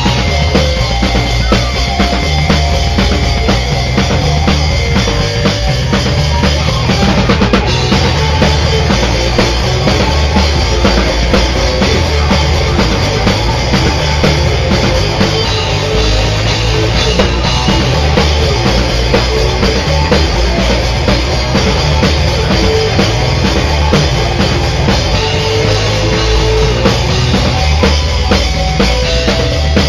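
Loud rock music played live by a band, with a driving drum kit (bass drum and snare) over guitars.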